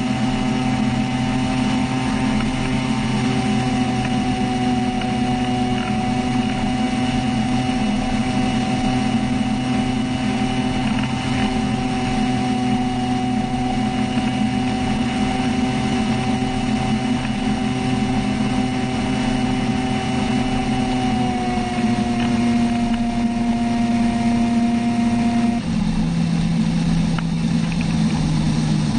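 Engine of a homemade flying boat running at a steady speed with a continuous drone. The pitch dips slightly a little past the 20-second mark and shifts abruptly again near the end.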